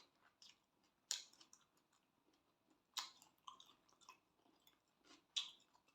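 A person chewing a mouthful of spicy glass-noodle salad close to the microphone, with a few short, crisp crunches and wet mouth clicks.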